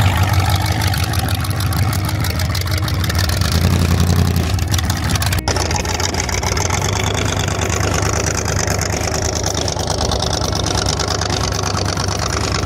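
A car engine idling loudly, with a rapid, even exhaust pulse and a deep steady hum. There is an abrupt cut about five seconds in, and the engine sound carries on after it.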